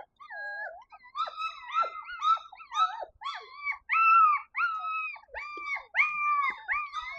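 Five-week-old Labradoodle puppies whining, a steady run of high-pitched whines and yelps about two a second, many rising and falling within each call.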